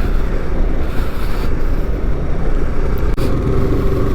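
Motorcycle running on the move, with a steady low rumble of wind and engine noise on the microphone.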